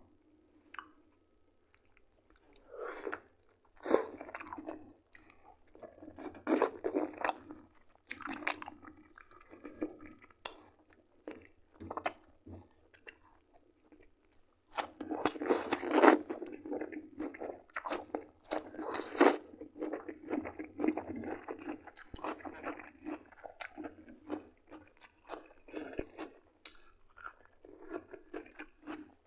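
A person eating roasted chicken drumsticks and fresh cucumber: crunching bites and chewing in irregular bursts with short pauses between them, the loudest bites a little past halfway.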